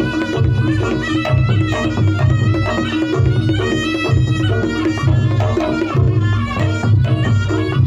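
Reog Ponorogo gamelan music played loud through a sound system: kendang drumming over a deep, regular beat about once a second, with a reedy wind melody bending above it.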